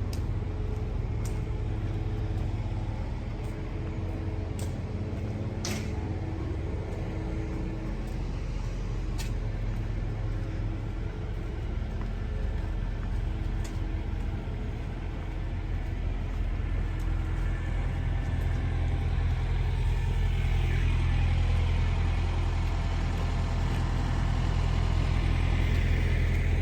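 Semi-truck diesel engine running steadily, a low rumbling hum that grows somewhat louder in the second half, with a few sharp clicks early on.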